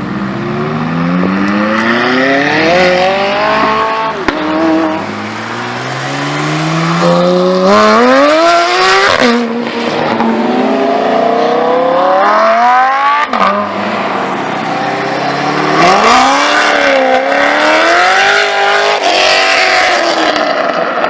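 High-performance car engines revving hard as cars accelerate away, the pitch climbing steeply several times and dropping off sharply about nine and thirteen seconds in, then rising and falling again near the end.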